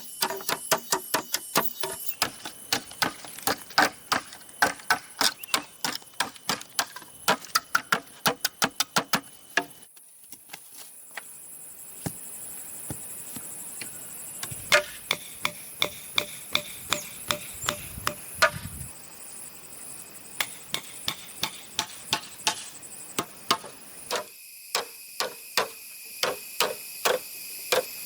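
A hand tool striking bamboo in quick, steady runs of blows, about three a second, with a pause of a few seconds near the middle.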